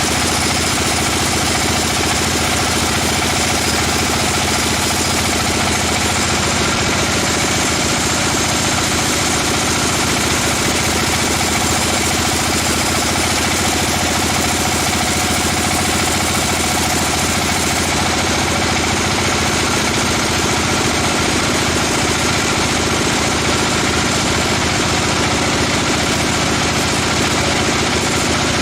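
Sawmill machinery running steadily, a constant engine-like drone with no change in pitch or level.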